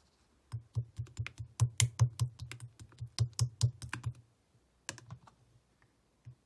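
Clear slime being pressed and squeezed by hand, giving a rapid run of crisp clicking pops, about five a second, then a few scattered clicks near the end.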